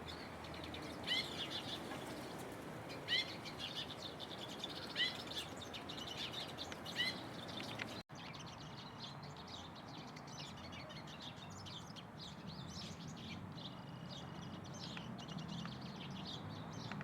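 Songbirds calling: a short sharp call repeated about every two seconds, four times. After a sudden cut about halfway through comes a dense, continuous chatter of many small birds chirping.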